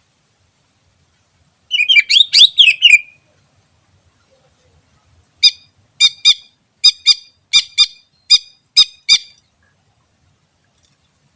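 Cucak ijo (green leafbird) calling: a quick chattering phrase lasting about a second, then after a pause a run of about ten sharp, short notes, two or three a second.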